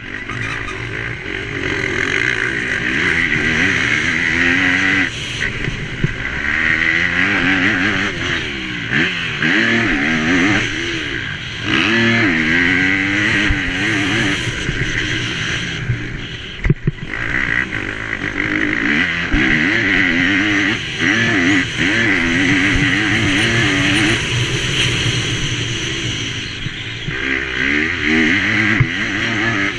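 MX2 motocross bike engine revving hard and falling back again and again as the rider works the throttle through a race lap, with a steady rush of wind noise over it. A sharp knock comes about seventeen seconds in.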